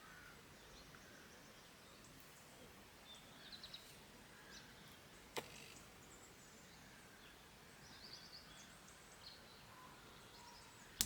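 Faint birdsong: scattered short, high chirps over a quiet background, with a single sharp click about five seconds in.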